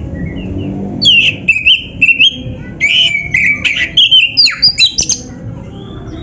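Oriental magpie-robin singing loudly, a run of clear whistled notes with quick slurs and a few sharp downward sweeps. The song starts about a second in and stops about a second before the end, over fainter chirping and low background noise.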